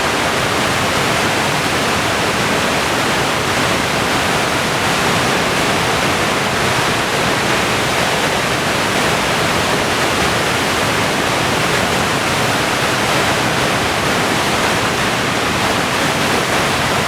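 Steady, loud rush of whitewater as the Potomac River pours through the rapids of Great Falls.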